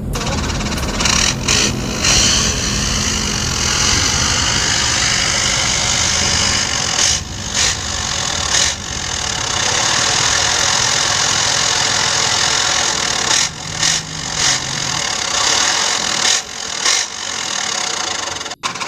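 Truck engine running steadily, with a number of short, sudden louder noises through it.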